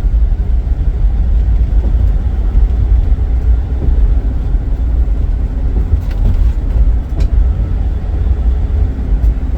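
Steady low road and engine rumble inside a moving van's cabin, with a faint tick or two about two-thirds of the way through.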